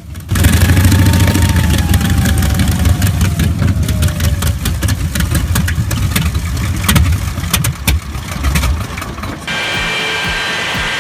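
Wright Cyclone R-1820 nine-cylinder air-cooled radial engine running loud, a deep rumble with many sharp cracks, and a whine falling in pitch over the first four seconds. About a second and a half before the end it cuts to a different, steady high-pitched whine.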